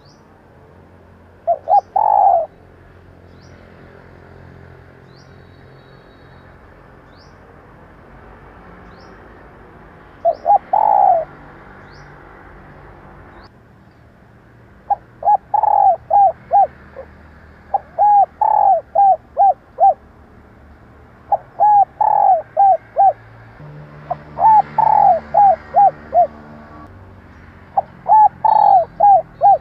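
Female spotted dove cooing in short phrases of several quick, low coos: two lone phrases in the first half, then phrases repeated about every three seconds. Faint high chirps from a small bird run through the first part.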